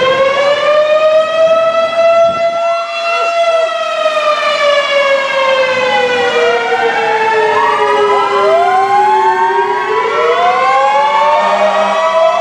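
Fire truck sirens sounding together. One slow wail rises and falls, and from about six seconds in other sirens join with overlapping wails, turning to quick yelps near the end.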